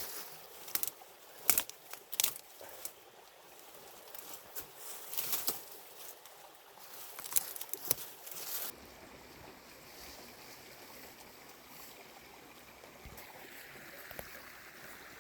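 Scattered sharp clicks and knocks with light rustling, as of things being handled, then, after an abrupt change about nine seconds in, a steady rush of flowing stream water.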